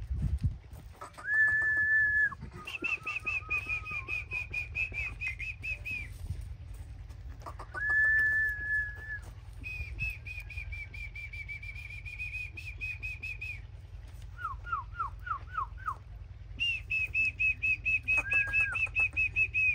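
A songbird singing in repeated phrases: short flat whistled notes, long fluttering trills held for several seconds, and about two-thirds of the way through a run of six quick falling notes. A steady low rumble runs underneath.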